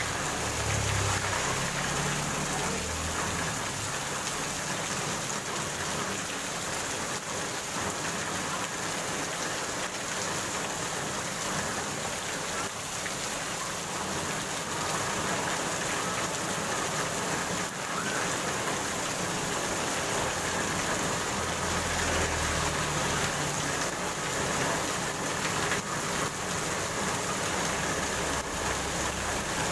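Heavy rain pouring onto a paved road, a steady hiss of drops hitting the wet surface. A low rumble swells under it near the start and again about three quarters of the way through.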